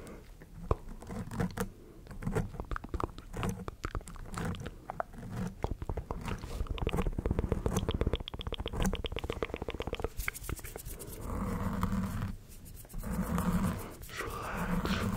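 ASMR mouth sounds close to the microphone: wet clicks and smacks that come faster and denser from about halfway through.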